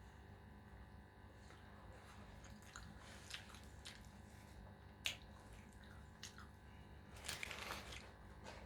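A person eating close to the microphone: faint chewing with scattered crunchy clicks, one sharper snap about halfway through and a denser crackling burst near the end.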